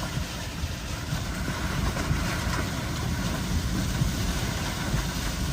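Gusty wind and vehicle rumble heard from inside a car, a steady uneven roar with no distinct tones, as strong rear-flank downdraft winds of a tornadic storm hit it.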